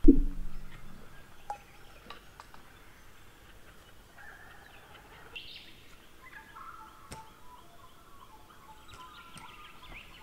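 A loud low thump at the very start that dies away within about a second, then birds calling faintly on and off, with scattered small clicks.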